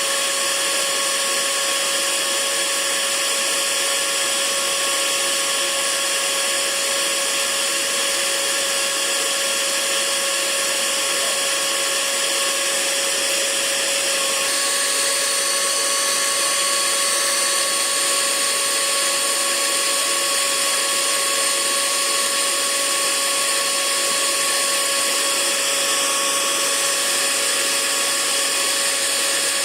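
Hair dryer running steadily: a constant rush of air under a steady motor whine, the whine shifting slightly about halfway through.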